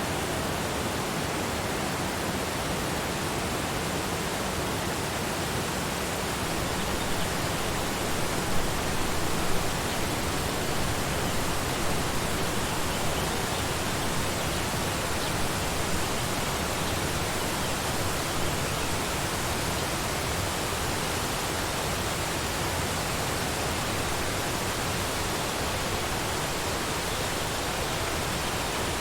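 Waterfall: a steady rush of falling water, with a few slightly louder splashes in the middle stretch.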